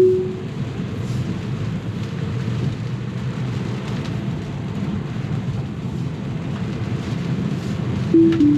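Steady low rumble of tyre and rain noise inside a Tesla's cabin on a wet road. A short two-note chime sounds right at the start, and a falling two-note chime near the end, typical of Tesla's Autopilot/FSD disengage chime.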